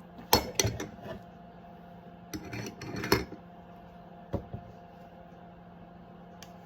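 Kitchenware clattering as it is handled: a few sharp knocks and rattles in two clusters, then a single knock, over a steady low hum.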